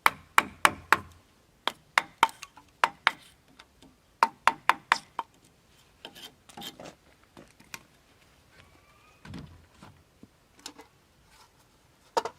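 Sharp strikes of a hand tool on wood, coming in quick runs of four to six blows a few times a second, then a few scattered, softer knocks.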